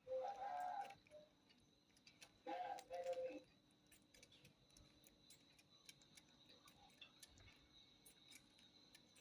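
Kitten mewing: two short, high calls, one at the start and another about two and a half seconds in, over faint scattered ticking clicks.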